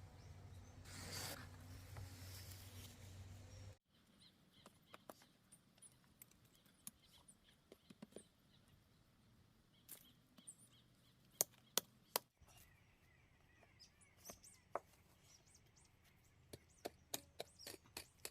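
Scattered sharp clicks and snaps over a faint background, with a few louder snaps near the middle. It opens with a few seconds of steadier rushing noise that cuts off abruptly.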